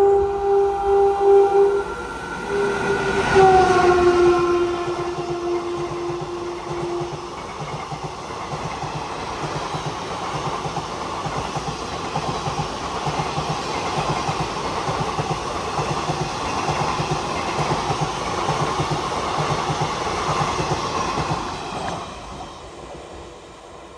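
An express train of ICF coaches running through a station at about 110 km/h. The locomotive's two-tone horn sounds and drops in pitch as it passes, a few seconds in. Then the coaches go by, wheels clattering over the rail joints in a fast, even rhythm, and the sound fades away near the end.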